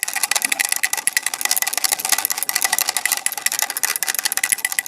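Toy damru (pellet drum) being played, its beads striking the heads in a fast, even run of sharp clicks, about a dozen a second.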